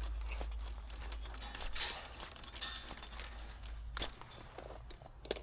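Scattered rustles and light clicks of handling or footsteps over a low steady rumble. The sharpest click comes about four seconds in, and the rumble fades near the end.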